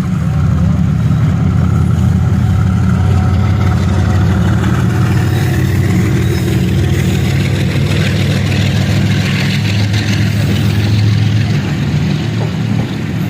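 Pakistan Railways GEU40 diesel-electric locomotive's engine running with a deep, steady rumble as it brings the train in, easing slightly near the end.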